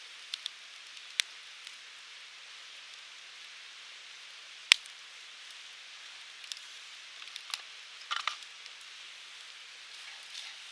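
Firewood burning in an open campfire: a steady soft hiss with scattered crackles and pops. There is one sharp, loud pop about halfway through and a quick cluster of crackles a few seconds later.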